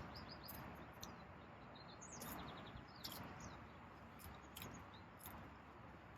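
Faint outdoor background with small birds chirping: scattered short high chirps and a quick run of notes a little over two seconds in.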